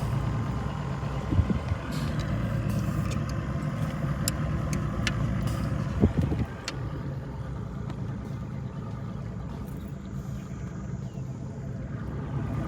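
An engine running steadily with a low hum, with a few light clicks and one louder knock about six seconds in.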